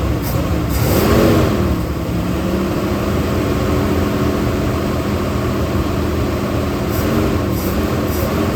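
1977 Chevrolet K10's 454 big-block V8 running, blipped once about a second in with the pitch rising and falling back, then settling to a steady idle, with a smaller rev near the end.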